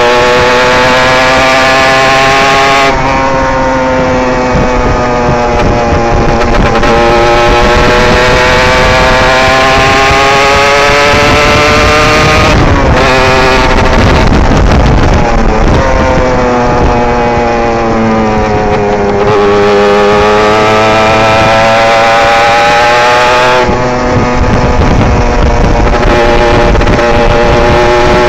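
Derbi GPR 125 motorcycle engine heard from onboard, at high revs throughout. The pitch climbs steadily under acceleration, then breaks and drops several times at gear changes and when the throttle is eased for bends.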